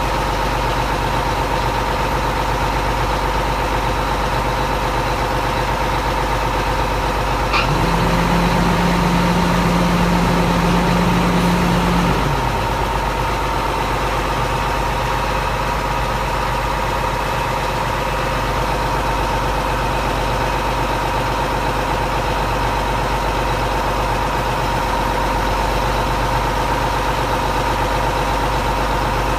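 Crane truck's diesel engine idling steadily. About eight seconds in, a click is followed by a low steady hum that lasts about four seconds, then drops away.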